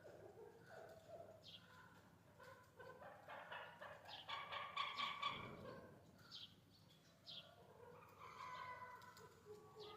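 Chukar partridge calling: a run of calls that swells to its loudest about four to five seconds in, with sharp high chirps repeating roughly once a second.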